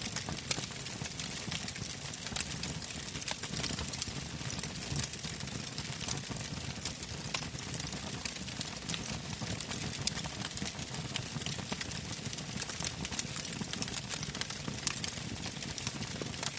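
Wood fire burning in an open fire pit: frequent small crackles and pops over a steady low rush of flame.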